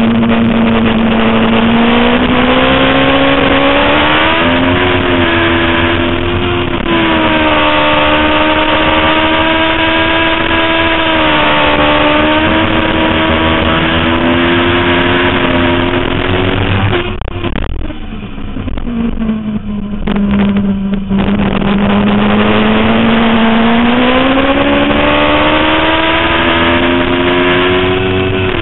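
Suzuki GSX-R 750 inline-four sport bike at high revs under hard throttle on a race track. A little past halfway the throttle snaps shut and the engine drops for a few seconds, then the revs climb steadily again as it accelerates.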